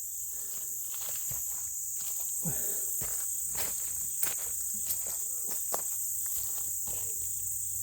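A steady high-pitched chorus of insects, with scattered footsteps and light rustling and clicks of someone moving about.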